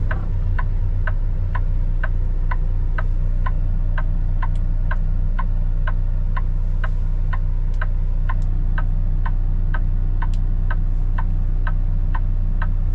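Turn-signal flasher clicking steadily in a semi truck's cab, about two clicks a second, signalling a left turn, over the steady low drone of the truck's engine.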